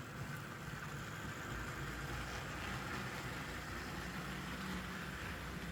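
Electric motors of two HO-scale model diesel locomotives whining steadily under heavy load, straining to move a very heavy train.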